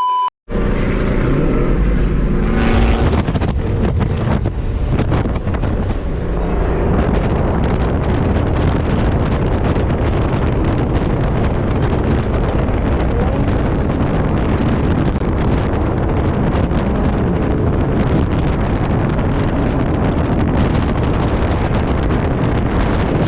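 Car driving on the road, its engine and road noise covered by heavy wind buffeting on the microphone. The engine is clearest in the first few seconds, after which wind rumble dominates.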